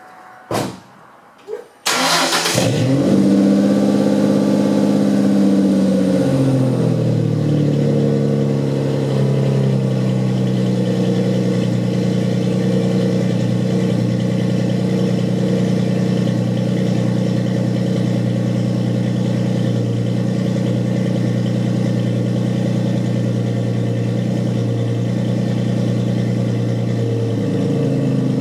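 2004 Ford Mustang 3.9-litre V6 with a true dual exhaust, Thrush welded mufflers and the rear catalytic converters cut off, starting up about two seconds in after two short clicks. It catches with a loud burst, holds a raised fast idle for several seconds, then settles to a steady idle.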